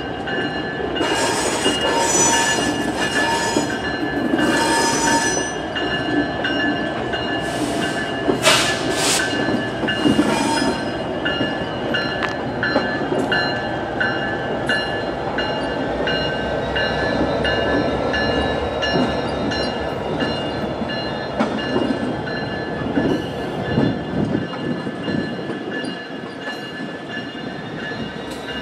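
Freight train passing close by, led by Norfolk Southern and orange diesel locomotives: a steady rumble of engines and wheels on the rail, with a squeal from the wheels and several sharp clanks about eight to ten seconds in.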